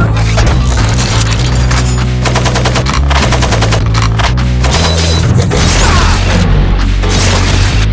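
Rapid gunfire sound effects, bursts of machine-gun-style shots, laid over a music track with a heavy steady bass.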